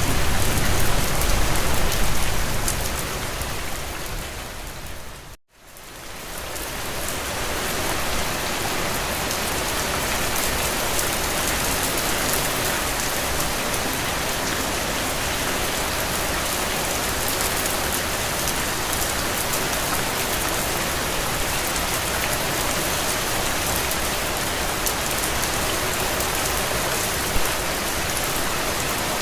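Steady rain falling on a window, an even, dense hiss of drops. About five seconds in it fades away to a brief moment of silence, then fades back up and runs on evenly.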